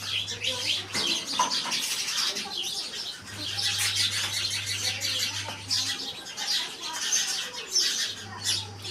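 A flock of small birds chirping continuously, many short high tweets overlapping, with no pause.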